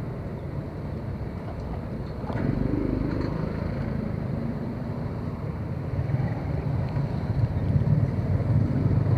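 Motorcycle engine running under way, with a rise in level about two seconds in and building louder toward the end as it picks up speed.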